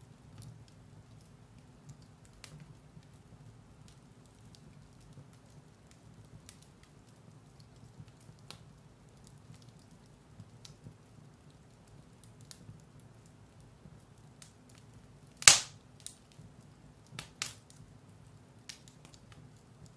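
Firewood burning in a fireplace, crackling with scattered small pops over a low steady rumble, and one loud sharp crack about three quarters of the way through, followed by a few smaller pops.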